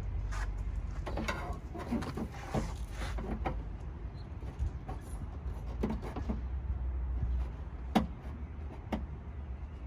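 Scattered small clicks and light knocks of hand tools being worked on the car, with one sharper click about 8 seconds in, over a steady low hum.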